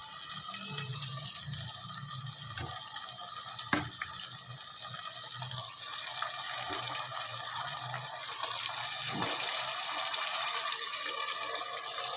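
Marinated chicken leg pieces sizzling in hot oil with browned onions, a steady hiss, with a sharp knock about four seconds in.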